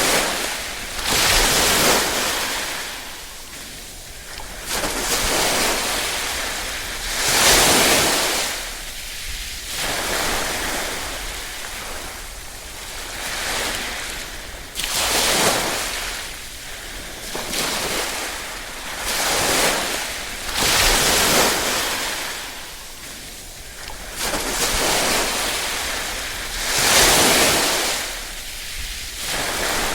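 Small, gentle waves lapping on a shore, each one swelling into a wash and then ebbing, one every few seconds.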